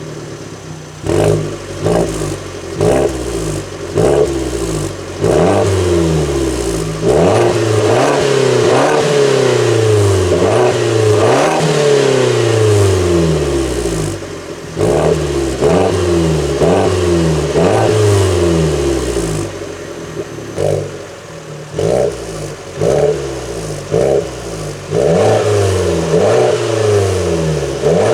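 Alfa Romeo Giulietta 1.4 turbo petrol four-cylinder revved again and again through a free-flow rear exhaust silencer, with the stock centre silencer still fitted. Its pitch climbs quickly and then sinks back, many times over, with a deep tone.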